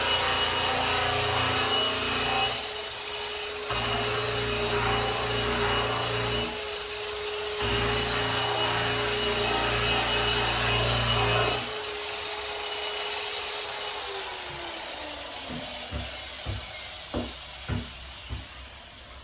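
Electric polisher running and buffing the lacquered case of a grand piano, its low rubbing rumble dropping out briefly twice, then stopping about two thirds of the way in. The motor then winds down with falling pitch, and a few knocks follow near the end.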